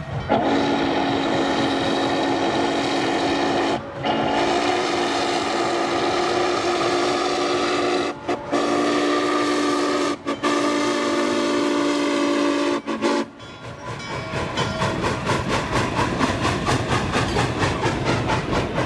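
Norfolk & Western 611's steam whistle sounding a chord in a run of long blasts with brief breaks, for about thirteen seconds. After it stops, a fast rhythmic beat of the train under way, about four a second.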